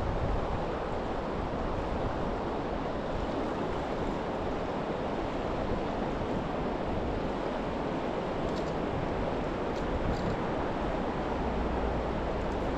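Steady rushing of river water flowing past, an even wash of noise with no break.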